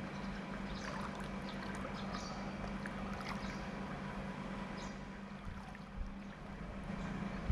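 Underwater ambience in a swimming pool heard through a GoPro: a steady low hum with faint scattered clicks and crackles of water and bubbles, and a soft knock about six seconds in.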